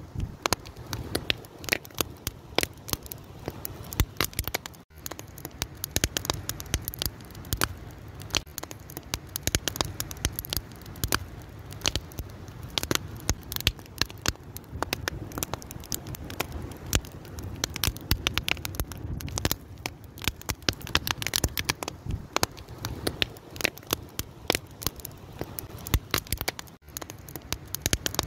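Wood fire crackling and popping: dense, irregular sharp snaps over a steady low rush of the flames.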